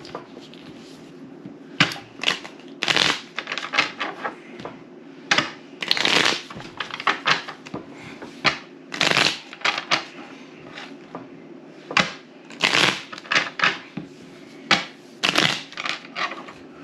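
Playing cards being shuffled and handled during a card game, a string of short, irregular rustles and snaps.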